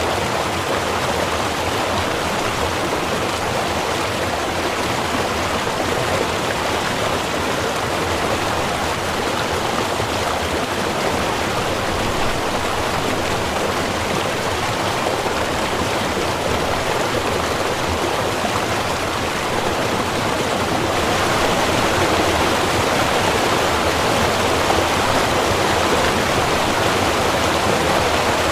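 Small river running: a steady rush of flowing water that gets a little louder about two-thirds of the way through.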